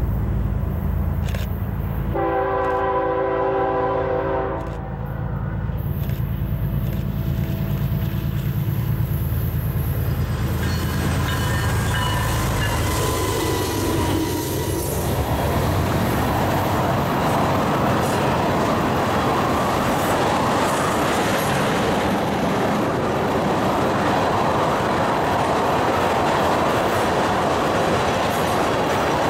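A freight train's diesel locomotive blows its air horn about two seconds in, a loud blast of a few seconds over its engine rumble. It then passes close by, and from about halfway through the freight cars, mostly tank cars, roll past with a steady clatter of wheels on rail.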